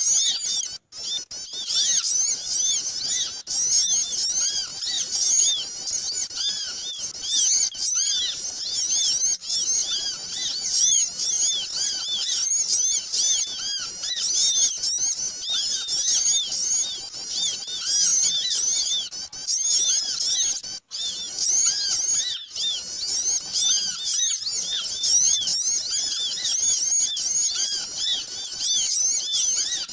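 A noisy chorus of many small birds chirping and twittering without pause: short, high-pitched, overlapping notes. It is a bird-lure (pikat) recording, played to draw small birds in. The sound cuts out very briefly twice, about a second in and about two-thirds of the way through.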